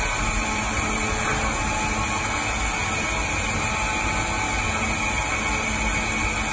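CNC machine tool running during machining, a steady mechanical noise with faint steady tones.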